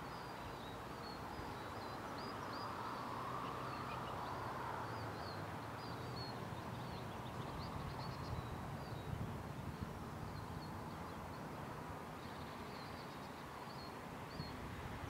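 Small birds chirping and twittering in many short high calls over a faint, steady outdoor background hiss.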